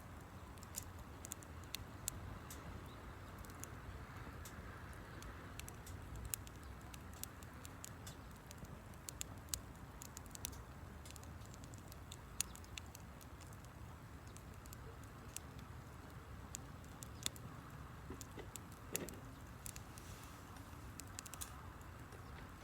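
Wood campfire burning, crackling with many small irregular snaps and pops over a faint low rumble.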